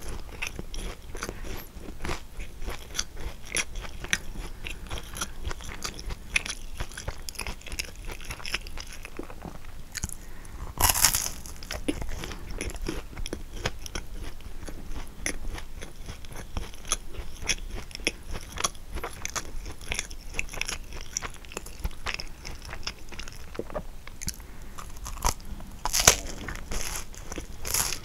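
Close-up chewing of a kouign-amann, its caramelised crust crunching and crackling between the teeth. There are two louder bites, one about a third of the way in and one near the end.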